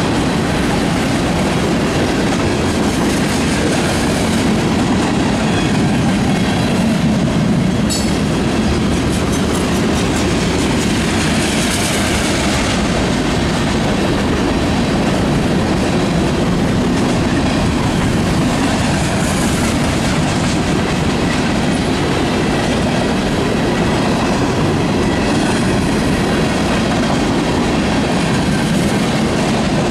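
Freight train's tank cars and hopper cars rolling past close by: a steady rumble and clatter of steel wheels on the rails.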